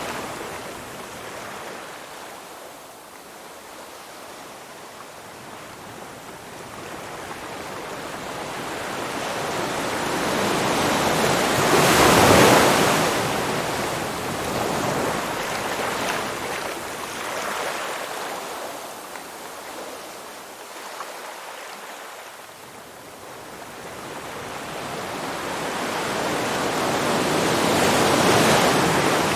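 Ocean surf: the rushing hiss of waves breaking and washing in swells to a peak about twelve seconds in, ebbs away, then builds again to a second peak near the end.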